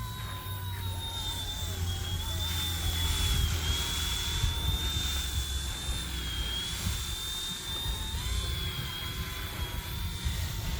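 Small battery-powered RC ERA 186C Pro helicopter in flight: a steady high motor-and-rotor whine whose pitch wavers slightly as the throttle is worked. A gusty low rumble of wind on the microphone runs underneath.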